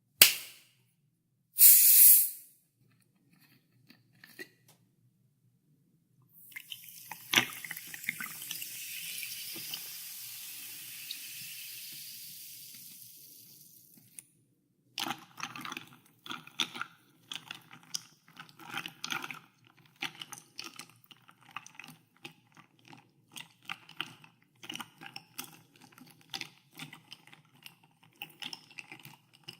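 A sharp click and a short hiss near the start, then a long fizzing hiss of soda water lasting about eight seconds. After that, ice cubes clink irregularly in a glass as they are stirred in the soda.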